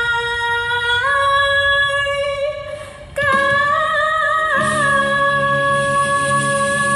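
A young woman singing solo in Mandarin, drawing out long held notes that step upward, the last one wavering with vibrato. Instrumental backing comes in about halfway through.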